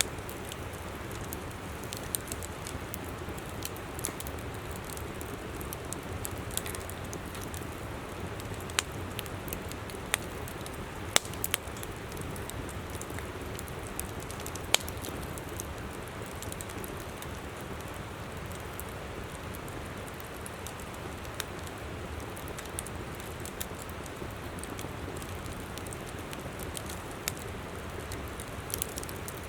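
Wood campfire crackling with scattered sharp pops, the loudest a little past the middle, over the steady rush of a flowing river.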